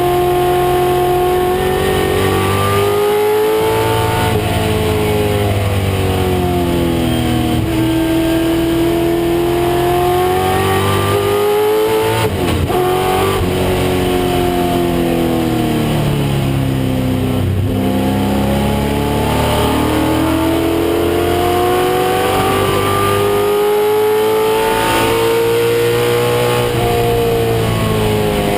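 1996 Ford Mustang race car's engine running hard at racing speed. Its pitch climbs under acceleration, then drops off again and again, about every four to six seconds, as the car lifts, brakes and shifts.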